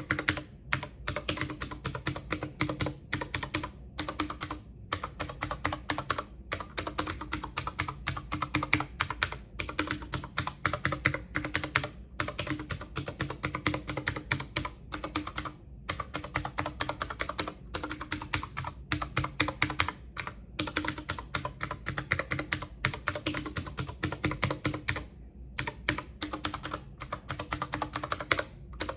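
Computer keyboard being typed on: rapid, continuous key clicks with brief pauses.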